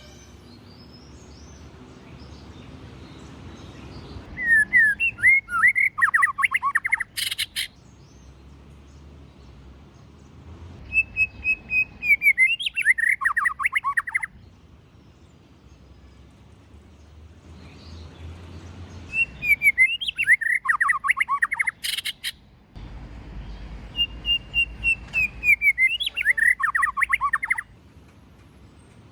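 White-rumped shama singing four phrases, each a quick run of clear whistled notes that slide downward, with a sharp click right after the first and the third phrase.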